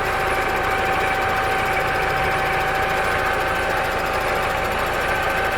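A machine running steadily: an even mechanical hum with a constant high whine that holds the same pitch throughout.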